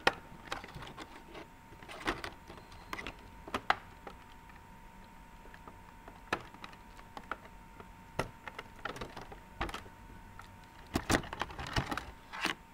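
Hands working at plastic toy packaging, pulling off tape to free a small plastic missile: irregular clicks, taps and scrapes, with a quick run of louder clicks near the end.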